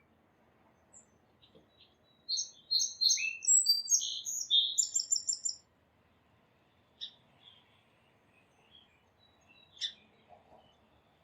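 A songbird sings one phrase of about three seconds, a run of varied high notes ending in a fast trill, followed later by two single sharp chips.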